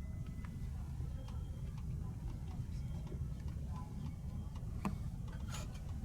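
Steady low rumble of a TGV high-speed train running, heard from inside the carriage, with scattered light clicks and rattles and a sharper click or two near the end.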